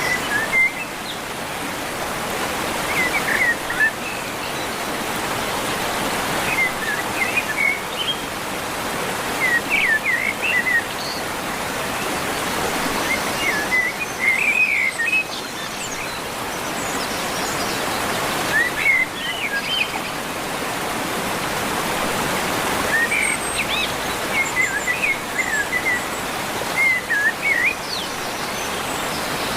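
River water rushing steadily, with birds chirping in short bursts every few seconds over it.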